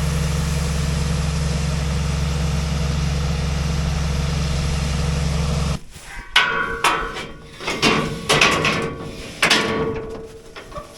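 A steady, loud low machine drone that cuts off suddenly about six seconds in. It is followed by a run of irregular sharp metallic clanks and knocks with a brief ring, the sort of sound made by handling metal fittings while refuelling farm machinery.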